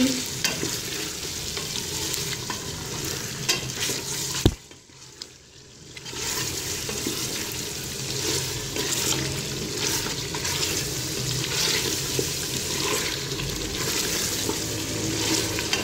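Beef trotters frying in oil in an aluminium pressure-cooker pot, sizzling and crackling while a wooden spoon stirs and scrapes them; this is the dry-frying (bhunna) stage after the cooking water has boiled off. A sharp knock comes about four and a half seconds in, and the sizzle drops away for a second or so before it resumes.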